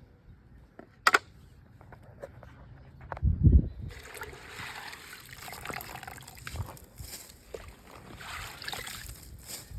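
Swimming pool water splashing and sloshing, swelling and easing, with a sharp click about a second in and a loud low thump shortly before the splashing starts.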